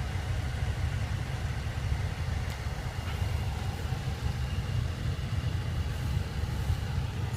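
Steady low rumble of the BMW 535i's turbocharged 3.0-litre inline-six idling, heard inside the cabin from the back seat.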